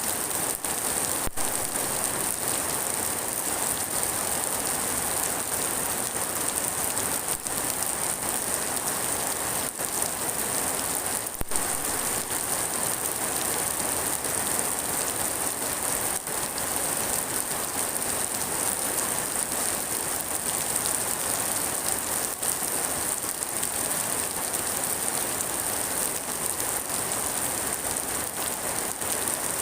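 Steady rain falling and pattering on surfaces, an even hiss with no pauses.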